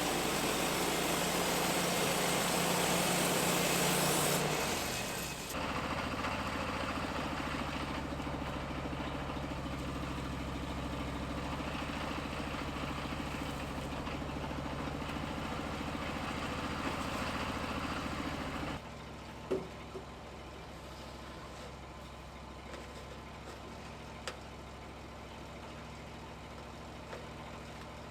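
Sawmill engine running steadily, with a loud hiss over it for the first four or five seconds, typical of the blade cutting through the log. It runs on without the hiss, then drops to a quieter idle about nineteen seconds in, with a few light knocks after.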